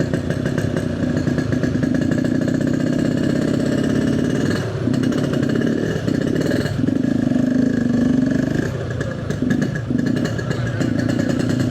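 Yamaha RX-King's two-stroke single-cylinder engine running as the bike is ridden slowly, with the throttle easing off briefly several times.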